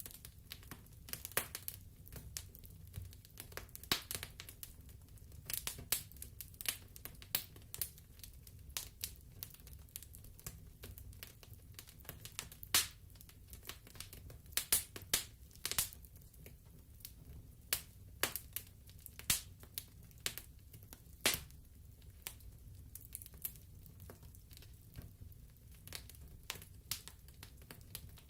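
Wood fire crackling in a fireplace: irregular snaps and pops, a few sharper ones around the middle, over a soft low rumble.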